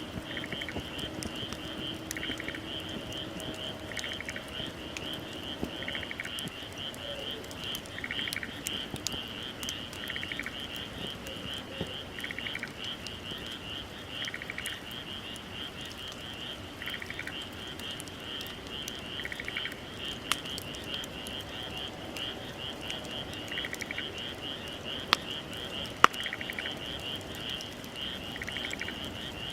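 A chorus of frogs calling: a steady, fast-pulsing high trill, with another caller giving short trills about every two seconds. A few sharp pops from the bonfire stand out, the loudest two about three-quarters of the way in.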